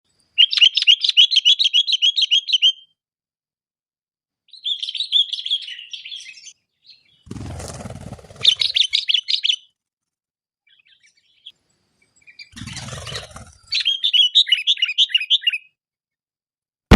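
Sooty-headed bulbul (kutilang) singing four phrases of rapid, repeated chirping notes, the first and longest at the start. Two short bursts of rustling noise fall between the later phrases.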